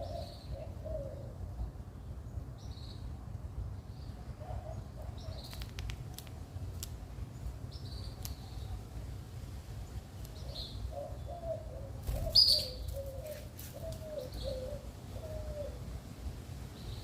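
A small bird calling with short, high chirps every second or two, and a run of lower wavering notes in the second half. A few clicks come in between, the loudest about twelve seconds in, over a steady low rumble.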